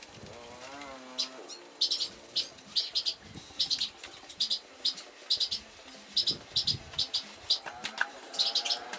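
Small bird chirping over and over, short sharp high chirps in quick pairs and triples, about two to three a second.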